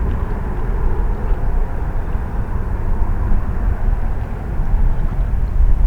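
Jet aircraft engines making a steady low rumble, with no clear rise or fall in pitch.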